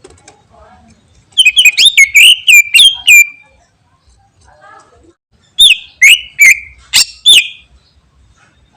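Greater green leafbird (cucak ijo) singing: two loud bursts, each about two seconds, of rapid whistled notes that glide sharply up and down, with faint softer calls in the pause between them.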